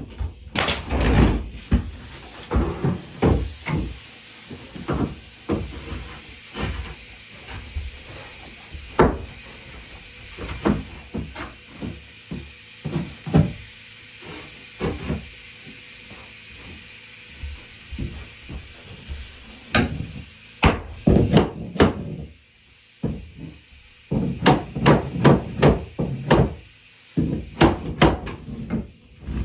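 Hammering on wood: sharp knocks coming in irregular groups with short pauses between, with a quick run of blows a few seconds before the end.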